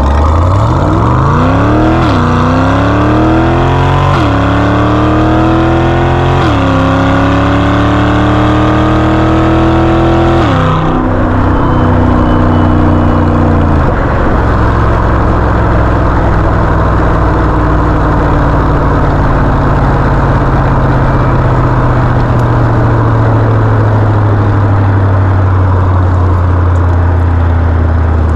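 Chevrolet C8 Corvette Stingray's V8 accelerating hard through the gears: the exhaust note climbs and drops back at each upshift, about 2, 4, 6½ and 10½ seconds in. After that the engine settles to a steady low note that slowly sinks in pitch as the car cruises.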